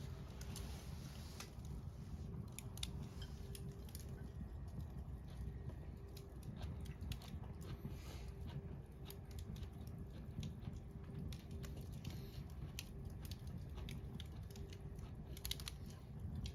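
Wood campfire crackling: scattered small sharp pops and ticks over a low steady rumble.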